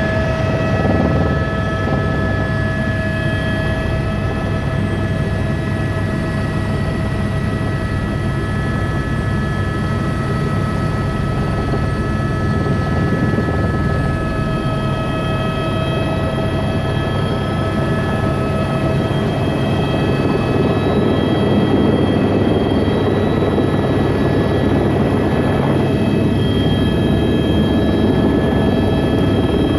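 Helicopter running: a steady, loud turbine whine over the fast beat of the rotor, with the whine's pitch mix shifting about halfway through.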